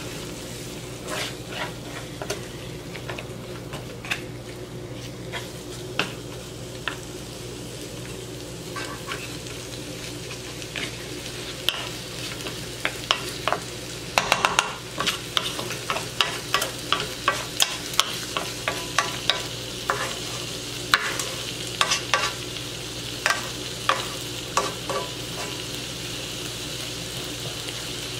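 Pork chops with garlic and red onion sizzling in a nonstick frying pan, with frequent sharp crackles and pops that grow busier about halfway through. At the start a wooden spatula scrapes and turns the meat in the pan.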